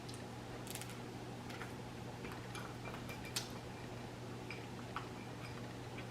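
Close-miked eating: scattered soft clicks and smacks of chewing, about ten over a few seconds with a sharper one a little past the middle, over a low steady hum.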